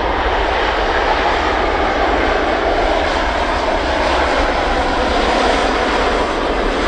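Airbus A350 jet aircraft, a steady even rush of engine and air noise with no change in pitch or level.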